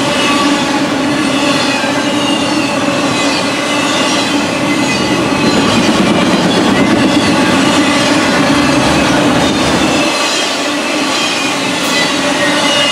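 Norfolk Southern intermodal freight cars rolling past: a steady rumble of steel wheels on rail, with high squealing tones from the wheels throughout.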